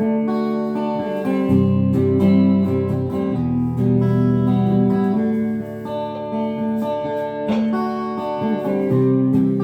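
G&L CLF Doheny V12 electric guitar played through an amplifier. Picked chords and notes ring out and change every second or so.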